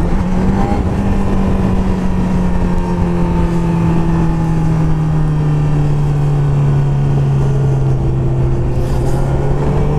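Sport motorcycle engine pulling at a steady throttle, its pitch sagging slowly and then rising again near the end, over rushing wind.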